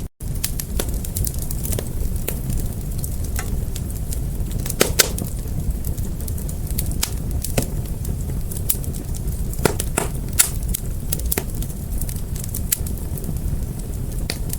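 Wood fire burning: a steady low rumble of flames with irregular sharp crackles and pops, two louder pops about five and ten seconds in. There is a momentary dropout right at the start.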